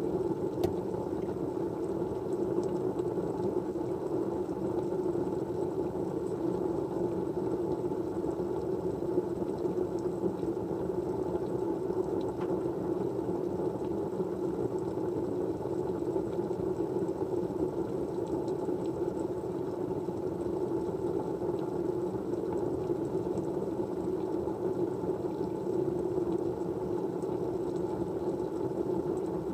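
Steady low rushing white noise, even throughout, with a few faint ticks scattered through it.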